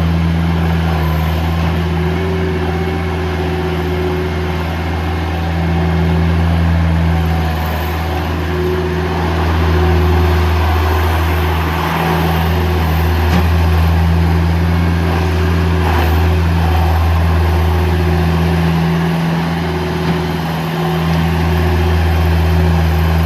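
Bobcat 753 skid steer loader's four-cylinder diesel engine running steadily at a low, even speed, with a couple of brief dips in level.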